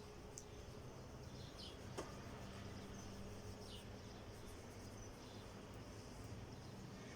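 Faint background ambience: a steady low hum with short high chirps every second or two, and a single sharp click about two seconds in.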